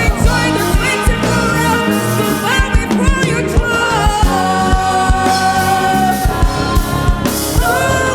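A choir's singers and a live band performing a gospel song in rehearsal: voices carrying a melody with slides and vibrato, over bass notes and a steady kick-drum beat.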